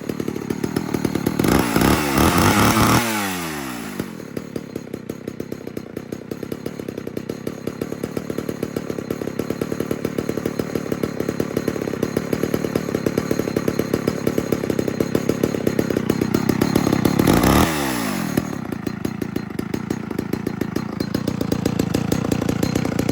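A 1998 Homelite Big Red Super XL two-stroke chainsaw running after a cold start, idling with a steady, even firing beat. It is revved up twice, about a second and a half in and again near the end, each time dropping back down to idle.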